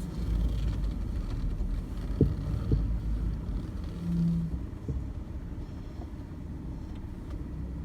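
Vehicle driving across farm ground: a steady low engine-and-road rumble with a few short knocks and rattles from bumps.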